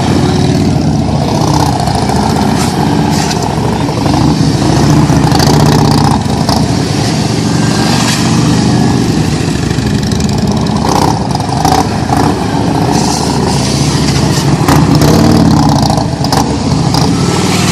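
Harley-Davidson police motorcycles running at low speed, engines revving up and down as they are ridden through tight slow-speed maneuvers.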